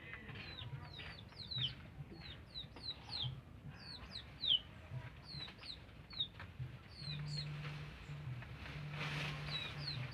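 Birds chirping: a steady stream of short, high, downward-sliding notes, several a second, with no speech.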